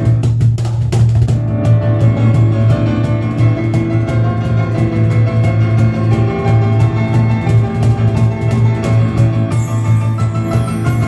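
Piano and cajon duo playing live: driving piano chords over rapid, steady cajon strikes, with a burst of brighter high-end sound near the end.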